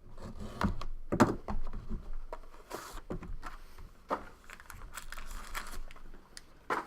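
Scattered clicks, knocks and short scrapes from hands handling a box of trading cards as it is opened.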